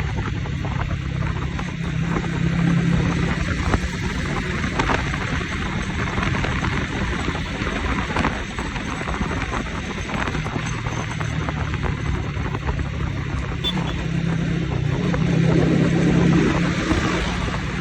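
Motorcycle engine running while riding, with wind and road noise on the microphone. The engine swells louder twice, near the start and again near the end, as the rider opens the throttle.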